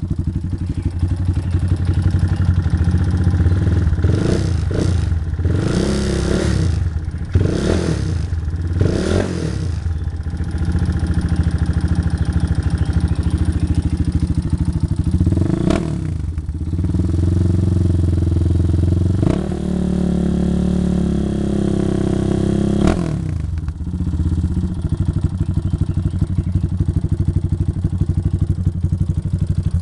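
Motorcycle with an aftermarket racing exhaust idling with a fast, even pulse, then blipped up five times in quick succession about four seconds in. After one more blip it is held at higher revs for several seconds near the middle, then drops back to idle.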